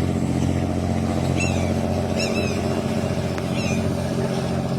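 Scania 550 hp diesel engine of a riverboat running under way with a steady deep rumble. Short high chirps come three times over it.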